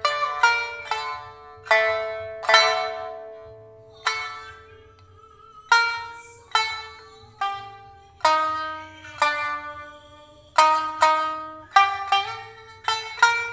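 Solo shamisen playing a hauta melody: single plucked notes with sharp attacks that ring and fade away, some in quick pairs, with short gaps between phrases.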